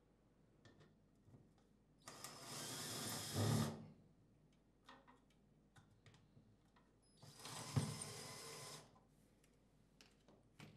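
Cordless power driver driving two screws, one after the other, each run about a second and a half long. The first run gets louder toward its end, and each ends with a low thud as the screw seats, fastening the battery box to the wall.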